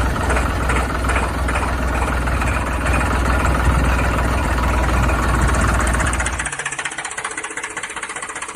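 Engine idling with a steady low, knocking beat, which falls away about six and a half seconds in, leaving only a quieter sound.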